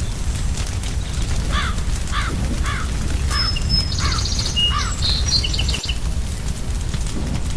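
Fire crackling with a steady low rumble. Over it, a crow caws six times in a quick even series, and small birds chirp and trill briefly after the caws.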